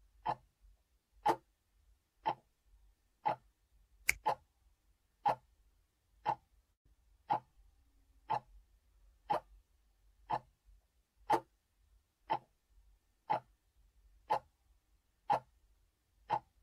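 A clock ticking steadily, one tick about every second, with one sharper click about four seconds in.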